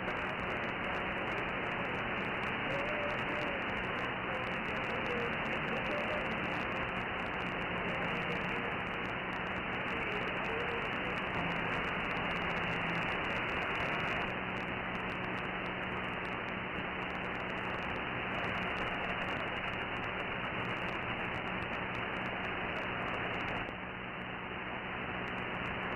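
CB radio receiver static between transmissions: a steady hiss cut off above about 3 kHz, with faint steady low hum tones and faint wavering tones buried in it. The hiss drops a little near the end.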